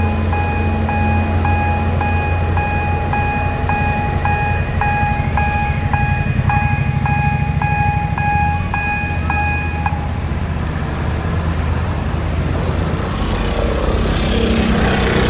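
Level-crossing warning bell ringing in a steady electronic ding about twice a second, stopping about ten seconds in, over the low rumble of a train's engine. A rushing hiss swells near the end.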